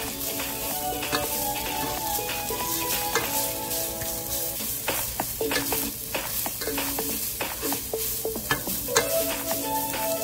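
Shredded chicken sizzling in hot oil in a nonstick pan, stirred and turned with a plastic spatula, with scattered clicks and scrapes of the utensil against the pan that come thicker in the second half.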